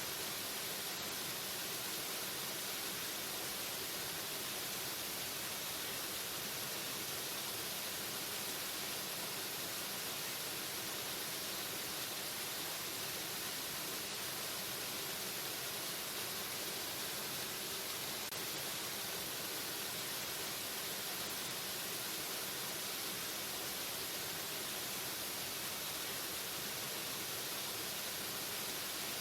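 Waterfall: the steady rush of falling water, an even hiss that does not let up.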